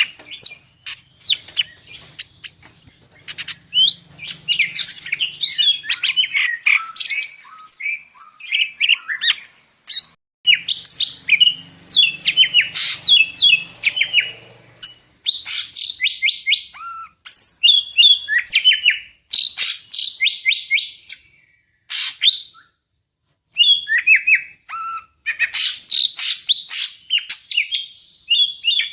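Medan-strain cucak ijo (greater green leafbird) singing a rapid, varied song of chirps, trills and whistles, full of mimicked phrases ('full isian'). The song stops for about a second roughly three-quarters of the way through.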